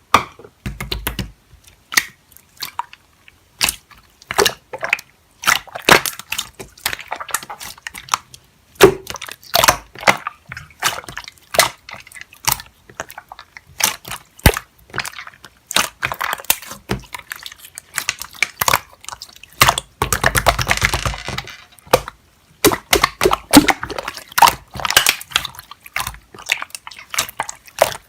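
Close-miked crunching and crackling in quick, irregular snaps, with a denser stretch of crackle about twenty seconds in.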